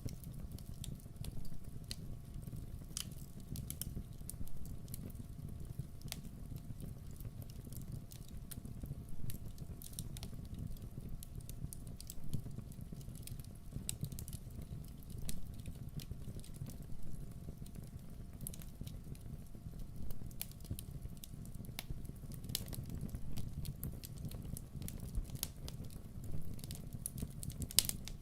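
Campfire burning: wood crackling with frequent short, irregular pops over a low steady rumble.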